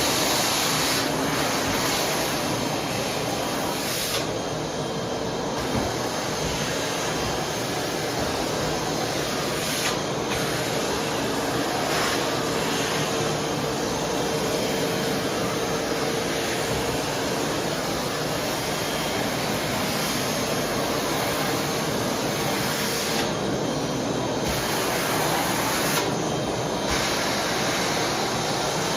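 Vacuum cleaner running steadily, its high hiss dipping briefly a few times.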